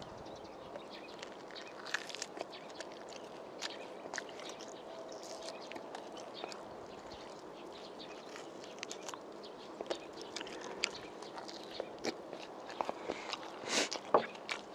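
Close-up eating sounds of a man chewing spicy braised pork ribs: scattered soft wet smacks and clicks of the mouth, with a louder cluster about a second before the end.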